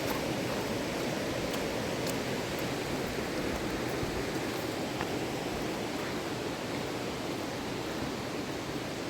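A fast river rushing steadily, with a few faint clicks over the top.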